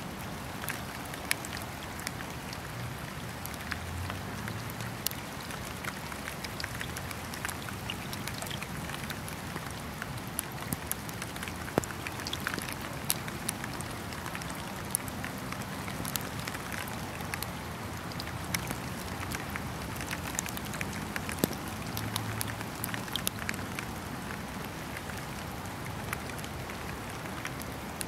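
Steady rain falling, with many sharp ticks of single drops scattered through it.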